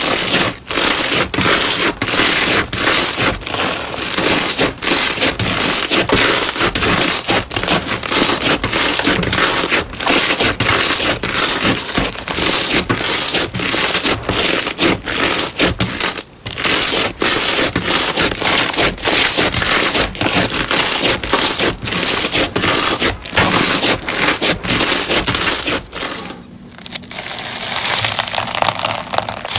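Crunchy slime being squeezed and pressed by hand, a dense run of crackling and crunching pops. Near the end it changes to a lighter, thinner crackle.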